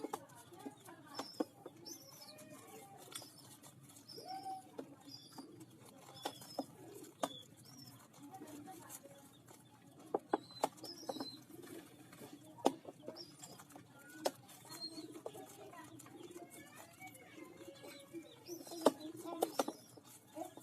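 Pigeon squabs calling with many short, high squeaks over a low pulsing murmur, with scattered sharp clicks and taps throughout.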